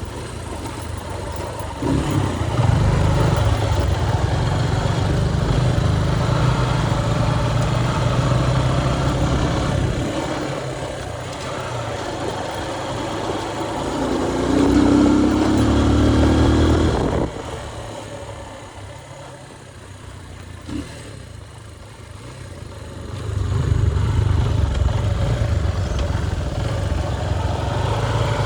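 Motorcycle engine running under way, loud and steady, with a rising pitch as it accelerates a little past the middle. It drops off sharply just after, stays quieter for several seconds, and grows louder again near the end.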